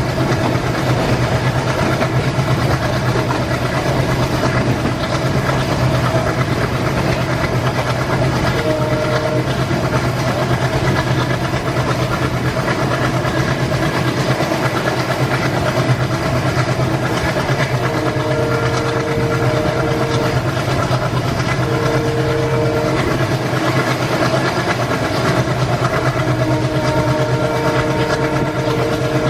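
Indian Railways train running past with a steady heavy rumble of wheels on the track. Its horn sounds several times: a short toot about nine seconds in, a blast of about two seconds near eighteen seconds, a shorter one soon after, and a long blast near the end.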